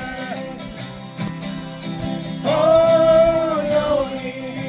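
Acoustic guitar playing with singing: a note held a little past the start, then after a short guitar passage another long sung note, held for about a second.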